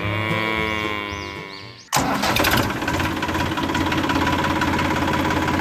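Music fading out, then an abrupt cut about two seconds in to a DIY mini tractor's motor running steadily.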